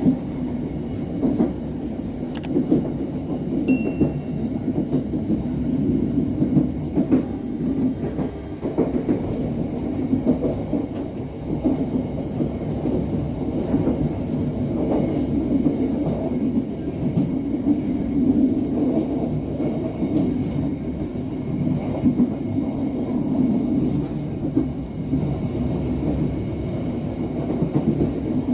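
Moving passenger train: a steady rumble of wheels on the rails with irregular clickety-clack. There is a brief high squeak about four seconds in.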